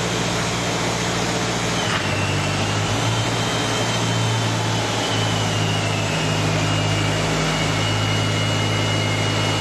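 Steady machine hum of the aircraft's ground power running. About two seconds in, a thin high whine joins and slowly slides lower in pitch as the Boeing C-97's main landing gear retracts.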